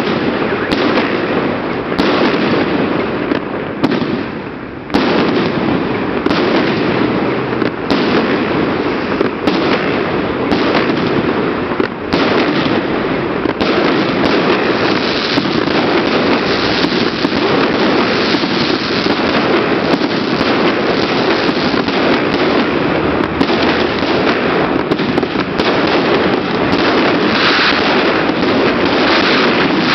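Fireworks display: a dense, continuous crackle of many rapid small bursts and pops, loud, with a brief lull about four seconds in.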